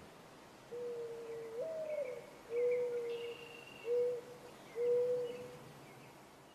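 A bird cooing: a long low note that steps up to a higher one, then three shorter hoots at the first pitch, with faint higher chirps behind.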